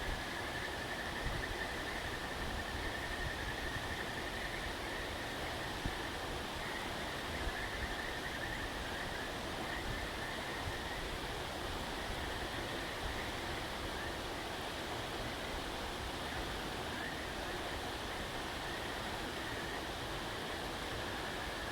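Bonfire burning down to embers: a steady hiss with a few faint pops, over a steady, slightly wavering high-pitched tone.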